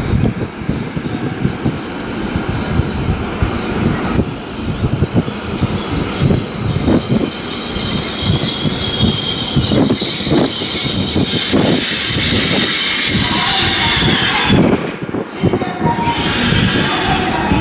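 Shinkansen bullet train running past the platform, a sustained loud rush of wheel and running noise with high whines that slowly fall in pitch.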